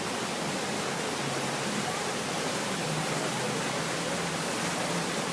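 Swollen creek in flood, about six feet above normal and running extremely fast: a steady rushing roar of whitewater.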